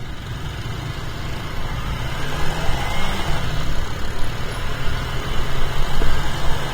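Yamaha R25 motorcycle on the move: wind and road noise over the engine, growing louder over the first few seconds.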